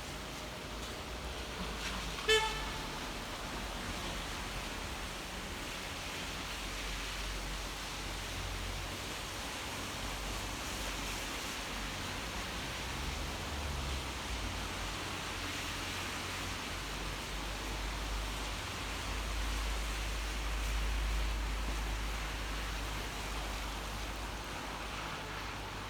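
Steady rain falling over a city street, with a single short car horn toot about two seconds in and a low rumble of road traffic that swells in the second half.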